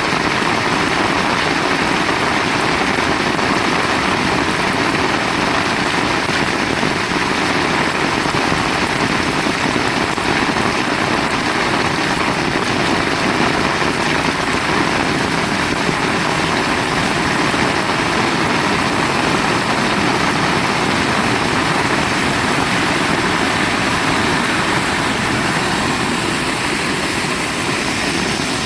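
Heavy rain pouring steadily: a dense, even hiss with no letup.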